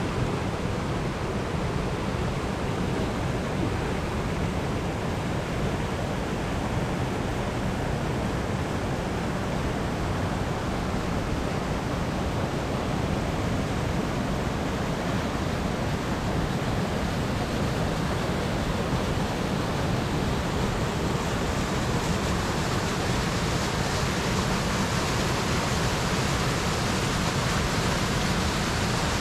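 Steady rushing of water pouring down Raymondskill Falls, an even, unbroken roar with no let-up.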